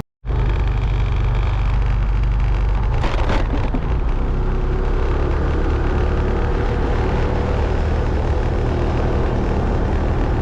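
A motorbike underway, with heavy low wind rumble on the helmet-mounted microphone drowning most of the engine, whose faint steady hum shows in the second half.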